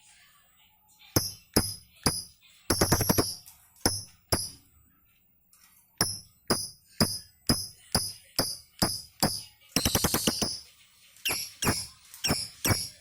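Lovebird chirping in a string of short, sharp, high calls, breaking twice into fast chattering runs: once about three seconds in and once near ten seconds.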